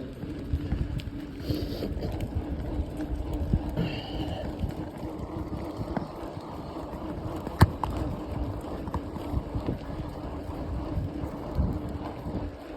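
Wind buffeting the microphone and rolling rumble of a bicycle ride, with a steady low hum and scattered small clicks, and one sharp knock about two-thirds of the way through.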